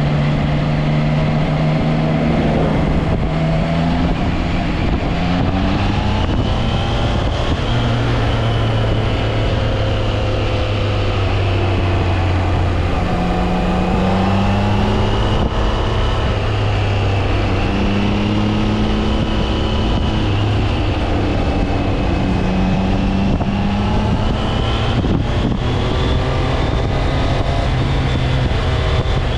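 Triumph Trident 660's inline three-cylinder engine running under way, its pitch rising and falling with the throttle, with wind noise on the microphone.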